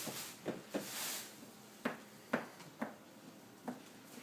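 A pet playing with a soft toy: a scattered series of light knocks and bumps, with a short rustle about a second in.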